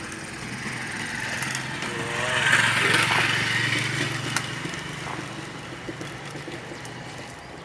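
A motor vehicle passing by: a low, steady engine hum and road noise swell to a peak about three seconds in, then fade away.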